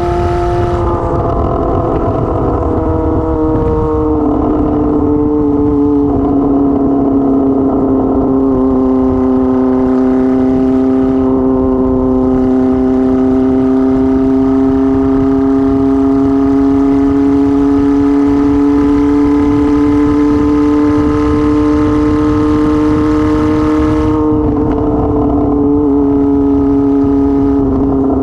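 Kawasaki ZR-7's 750cc air-cooled inline-four running at steady revs with no exhaust muffler fitted. The engine note drops a few seconds in, climbs slowly for most of the stretch, and eases off a little near the end.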